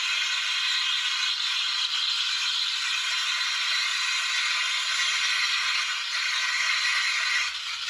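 Steam wand of a Noon East 15-bar espresso machine hissing steadily as it froths milk in a pitcher, the wand tip just under the milk's surface.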